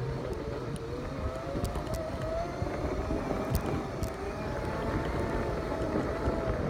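Segway's electric drive motors whining, the pitch wavering up and down with speed, over a low rumble and scattered knocks from riding across rough ground.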